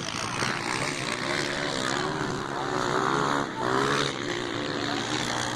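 Motocross bike engines revving, their pitch rising and falling as the throttle opens and closes, over a busy noisy background.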